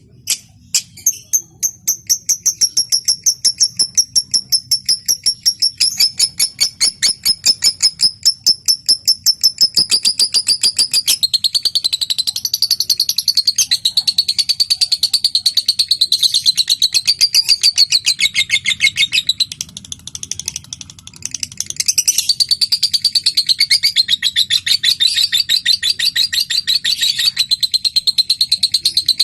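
Lovebird giving high-pitched ticking calls ('ngetik') that quicken from a few separate clicks into a fast run. About ten seconds in, these turn into a long, continuous chattering trill ('ngekek'), broken briefly about two-thirds of the way through.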